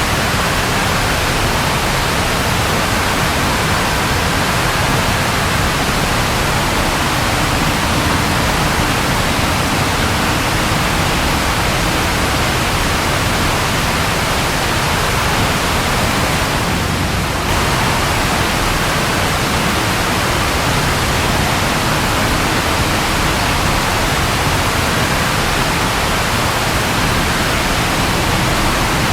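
Steady rain falling as a dense, even hiss, with a brief dip in level about seventeen seconds in.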